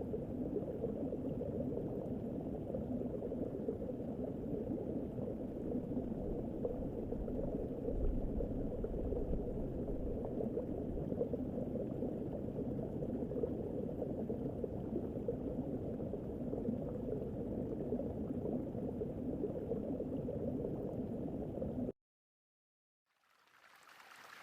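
Steady low rushing noise that cuts off suddenly near the end.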